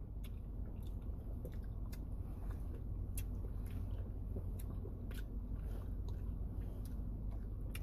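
Someone eating orange segments close to the microphone: irregular wet chewing with small mouth clicks and smacks, over a steady low hum.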